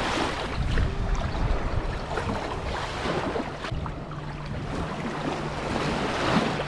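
Sea waves washing onto a beach, with wind buffeting the microphone. A faint steady low hum joins about four seconds in.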